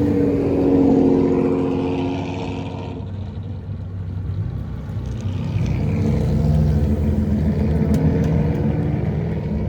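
Classic car engines driving past one after another: one is loudest about a second in and fades, and another builds up from about halfway through.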